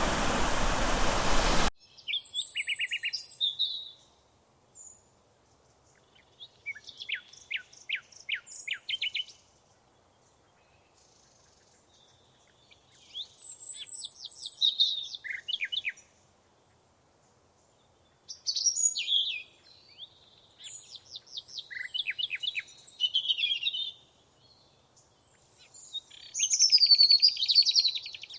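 A songbird singing in about five separate phrases of quick trills and sweeping high notes, with pauses between them. Under two seconds in, a steady rushing noise cuts off suddenly.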